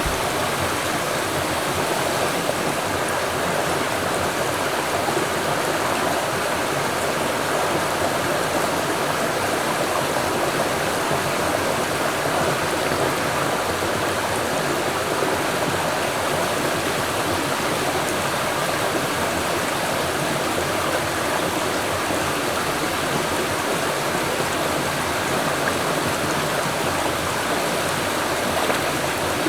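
Mountain stream rushing steadily, an even, unbroken wash of water noise.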